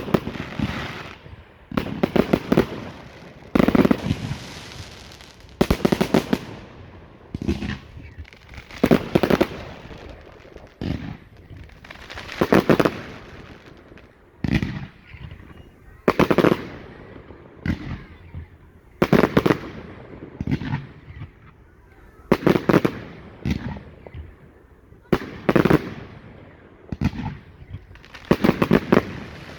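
Category 4 display fireworks bursting overhead in a steady run of loud bangs about every one to three seconds, each trailing off with a fading rumble.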